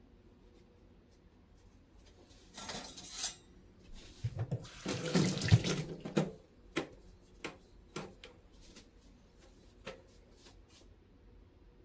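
Kitchen tap running into the sink in two short spells, the second longer and louder. After it come several light, sharp ticks spaced under a second apart.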